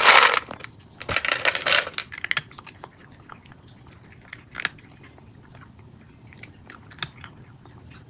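A pet crunching and chewing a dry treat: noisy crunches in the first two seconds, then scattered small clicks and crunches.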